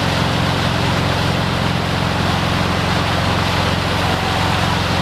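Motorboat engine running steadily under way, with water and wind noise over it.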